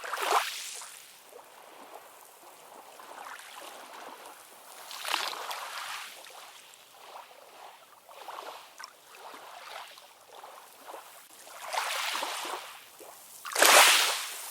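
Ocean waves washing in, a hissing wash of water that swells into separate surges every few seconds, the loudest just before the end.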